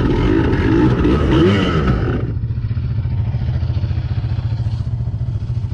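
Dirt bike engine being revved with a wavering pitch, then dropping about two seconds in to a steady, evenly pulsing idle.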